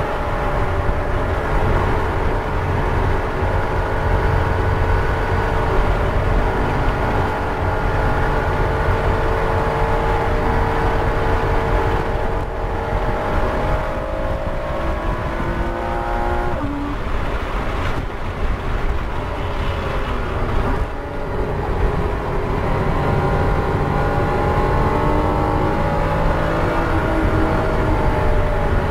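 The Porsche Cayman S's flat-six engine heard from inside the cabin, running hard at high revs on track with a steady, slowly rising pitch. About halfway through the pitch drops sharply and breaks off briefly twice as the throttle is lifted, then climbs again and falls near the end, over a constant rumble of road and tyre noise.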